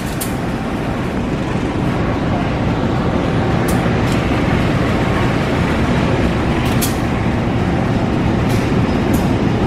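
CC 204 diesel-electric locomotive passing slowly, its diesel engine running with a steady low rumble that grows a little louder, then its passenger coaches rolling by. A few sharp clicks are scattered through it.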